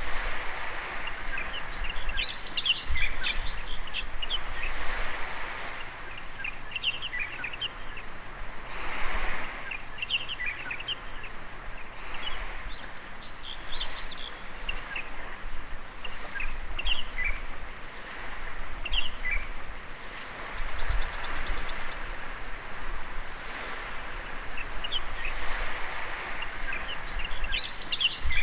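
Small birds chirping over the wash of waves on a beach, the surf swelling and fading every few seconds. A fast run of repeated chirps comes about two-thirds of the way through.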